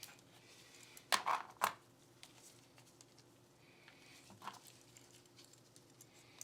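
Small hard parts of a Glock 19 pistol being handled during cleaning and trigger work: a quick run of three sharp clicks about a second in, then a fainter click past the middle.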